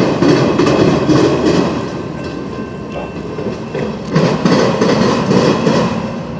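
A train's cars rolling past, a loud uneven rumble of wheels on rail with clicks as they cross rail joints.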